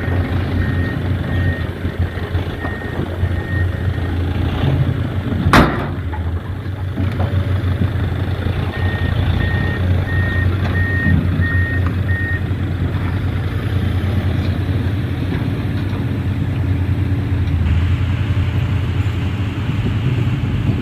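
Isuzu Giga dump truck's diesel engine running steadily, with a reversing beeper sounding in two spells at about two beeps a second. A single sharp bang about five and a half seconds in.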